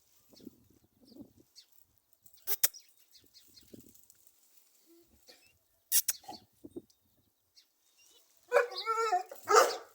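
Dog barking near the end: a drawn-out bark with a wavering pitch, then a short sharp one. Before that, long quiet stretches broken by two sharp clicks.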